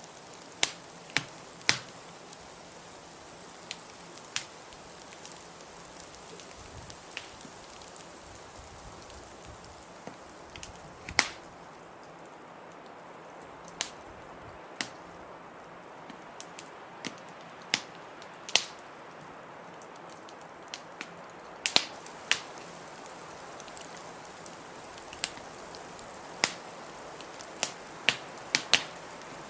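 Wood fire crackling in a fireplace: sharp pops and snaps at irregular intervals, a few much louder than the rest, over a steady hiss.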